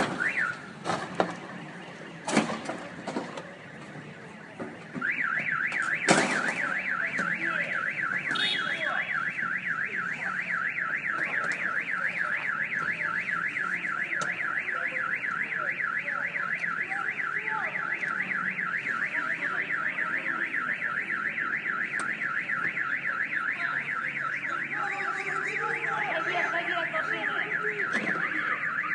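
A few sharp knocks, then a car alarm starts about five seconds in: a fast warbling siren tone that sweeps up and down several times a second and keeps going. A loud knock comes just after it starts.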